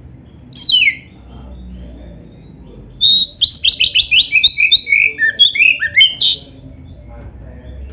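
Oriental magpie-robin (kacer) singing: a single falling whistled note about half a second in, then a rapid run of quick, varied notes and falling slurs lasting about three seconds.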